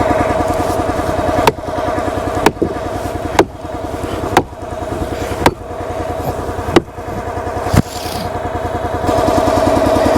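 Gas log splitter's small engine running steadily, warming up in the bitter cold, with a sharp click or knock about once a second over it.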